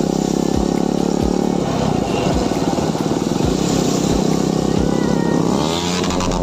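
Motorcycle engine running steadily while riding, with road noise, and a brief gliding tone near the end.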